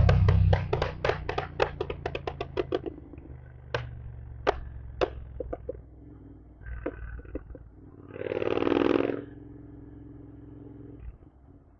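Royal Enfield Continental GT 650 parallel-twin, with a Code 6 tune, popping and crackling in its exhaust on the overrun after a rev: a fast run of sharp pops that thins out to single bangs. About eight seconds in there is a short blip of the throttle, then the engine idles low and stops near the end.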